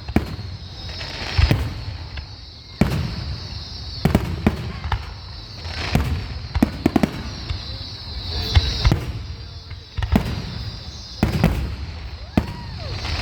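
Aerial fireworks display: a string of sharp shell bursts, a dozen or so irregularly spaced, each with a booming tail, and a hissing crackle between them.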